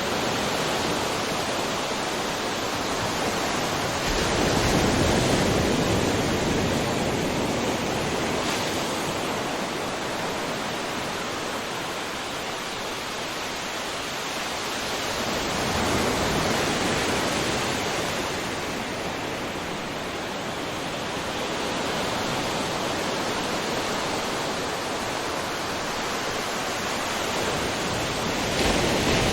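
Ocean waves breaking on a shore: a continuous rush of surf that swells louder three times, a few seconds in, about halfway through and near the end, easing back between.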